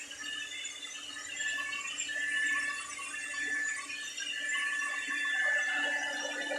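Hand-held hair dryer running, a steady high whine over rushing air. The level rises and falls as it is moved about the hair.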